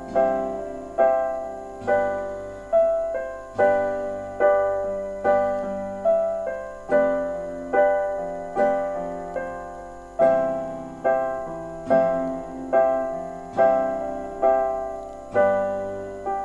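Background piano music: gentle chords struck about once a second, each ringing and fading.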